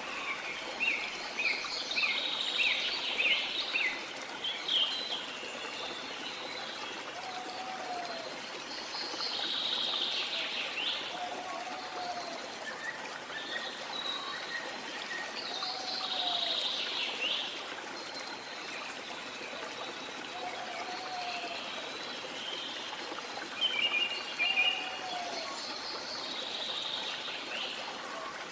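Steady rush of a waterfall under rainforest birdsong: one bird repeats a short, low, curved whistle about every three seconds while others give clusters of higher chirps and trills.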